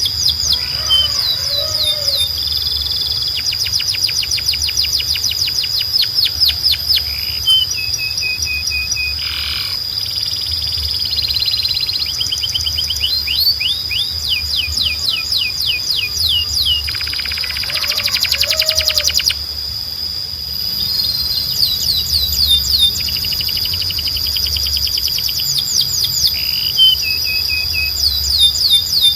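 Canary singing: long runs of quick repeated sweeping notes and trills, broken by short pauses, with a buzzy rattle partway through, over a steady high tone and a low hum.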